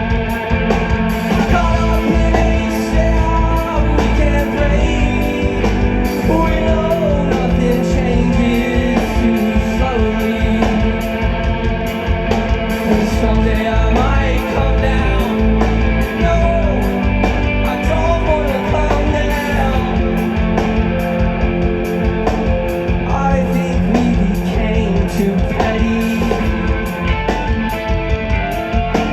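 Live rock band playing loudly and continuously: electric guitars over bass and drums, with gliding melodic lines above.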